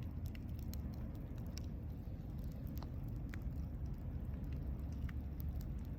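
Campfire burning: a steady low rumble under irregular sharp crackles and pops from the burning wood.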